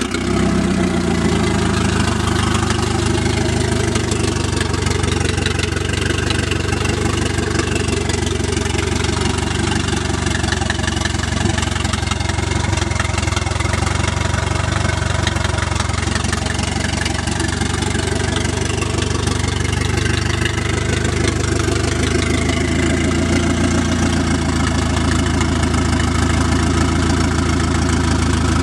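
Nissan CA20ET turbocharged inline-four, fitted with a home-built turbo kit, idling steadily.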